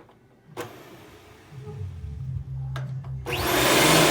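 Dirt Devil Ultra Vision Turbo upright vacuum: a click and a low hum, then a couple more clicks, and about three seconds in the motor comes on loud, spinning up to full speed.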